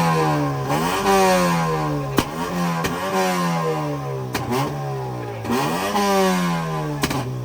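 Modified car engine revved in three blips, each dying away slowly as the revs fall, with sharp exhaust pops cracking in between.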